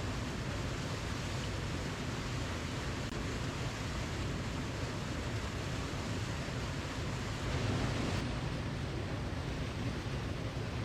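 Waterfall: a steady rush of falling water with a deep low rumble, swelling slightly about eight seconds in.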